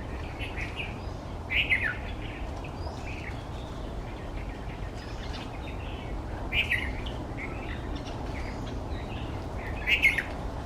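Wild birds calling: scattered short chirps, with three louder calls that fall in pitch, about a second and a half in, in the middle and near the end.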